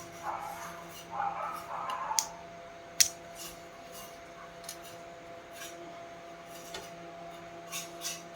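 Scraping and rubbing for about two seconds, then scattered sharp clicks and taps, the loudest about three seconds in, as small parts and tools are handled. A faint steady electrical hum runs underneath.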